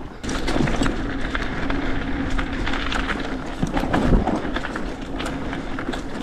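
Hardtail mountain bike ridden over a bumpy dirt trail: tyres on the ground with frequent rattles and knocks as the bike jolts over bumps, and wind on the microphone. The noise gets louder about a quarter second in.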